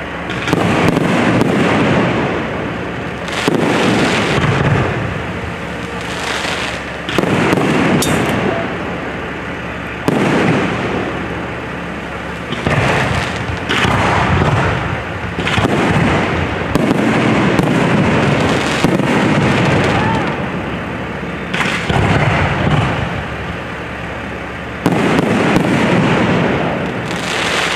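Aerial fireworks shells bursting in a steady run, a boom every second or two, each dying away in a long rumble.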